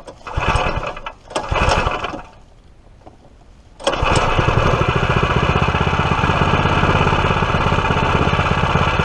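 Predator 212 single-cylinder four-stroke engine being pull-started: two short bursts of cranking, then about four seconds in it catches and runs steadily with an even pulse.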